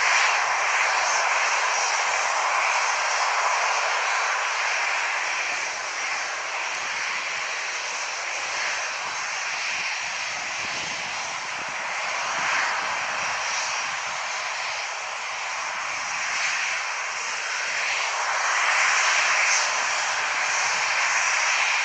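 Jet engines of a Ryanair Boeing 737 airliner running as it flies in close, a continuous rushing noise that swells and eases a few times.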